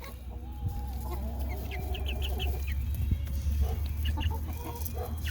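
Chickens clucking softly: a low, wavering cluck in the first second, then scattered short, high chirps.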